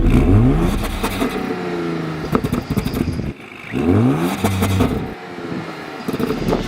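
2021 Audi S7's 2.9-litre twin-turbo V6 revved twice, each rev a quick rising engine note, about three and a half seconds apart, with a few sharp cracks in between.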